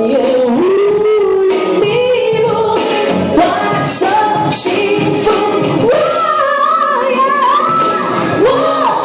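A woman singing a slow Chinese pop song over backing music, holding long notes that glide between pitches.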